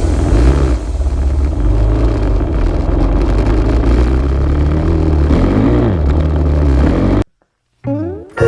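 Dirt bike engine running under heavy wind noise on the microphone, its pitch rising and falling twice as the throttle changes. It cuts off suddenly about seven seconds in, and music starts just before the end.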